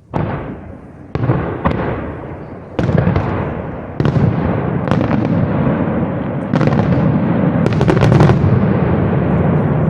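Aerial fireworks shells bursting in quick succession: a sudden loud boom, then more booms every second or so over a deep rolling rumble that builds, with a rapid cluster of crackling reports near the end.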